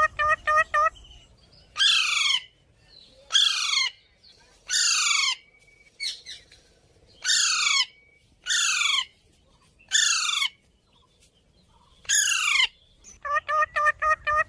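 Pet parrot calling: seven harsh screeches about half a second each, every one sliding down in pitch, with quick runs of short, even chattering notes at the start and near the end.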